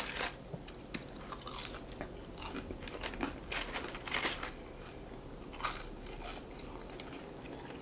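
Close-miked chewing and biting on Popeyes french fries: irregular soft crunches and small crackly clicks, a few louder ones scattered through.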